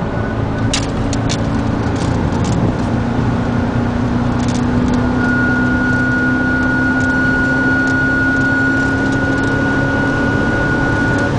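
Car cabin noise at high speed and high revs: a steady rush of engine and road noise with a gushing sound from the dashboard. A steady hum runs under it, and a thin high whine comes in about five seconds in; a few clicks sound in the first three seconds.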